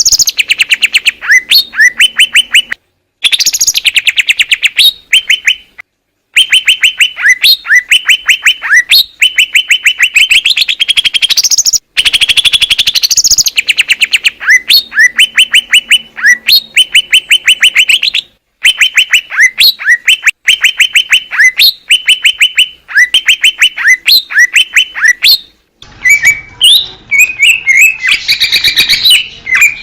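Green leafbird (cucak ijo) singing loudly: fast runs of repeated whistled notes and rattling trills. The song is spliced from several recordings, with short dead-silent breaks between them, and near the end a different take with more background hiss.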